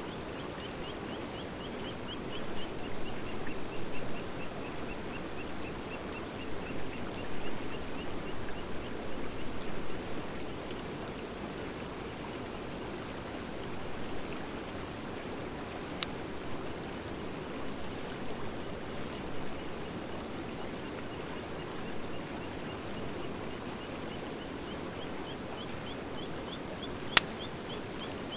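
Wood fire of driftwood and dry hardwood burning with a steady rushing hiss, louder and busier for a few seconds early on, and two sharp pops of the wood, a small one midway and a loud one near the end. A fast, high, repeated chirping runs over it at the start and again near the end.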